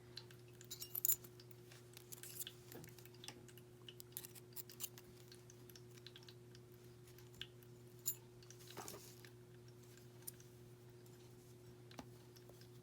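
Scattered light clicks and small rustles of beads and jewelry components being handled, over a steady low hum.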